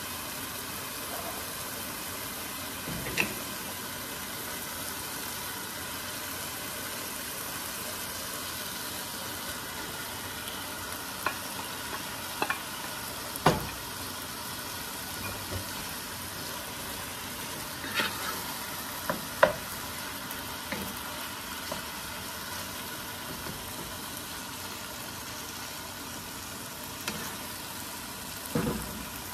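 Chopped onion, green pepper and tomato sizzling steadily in a large nonstick pot, with ground beef added to fry. A few sharp knocks ring out as the beef is tipped in from a plastic container and worked with a wooden spoon against the pot.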